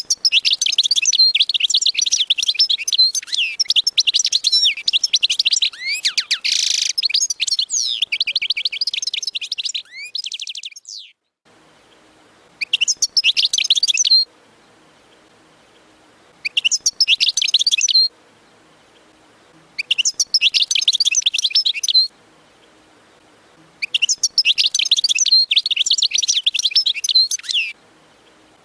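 Caged finch singing: one long run of fast, high twittering trills lasting about ten seconds, then four shorter bursts of song with pauses of a few seconds between them.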